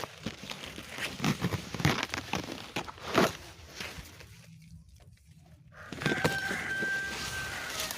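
Chickens clucking in short calls, then a rooster crowing with one long held note about six seconds in.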